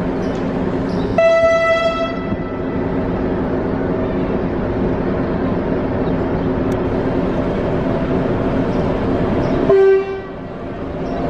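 Train horn blown twice over the steady rumble of a train engine: a higher blast about a second in, then a lower, shorter one near the end.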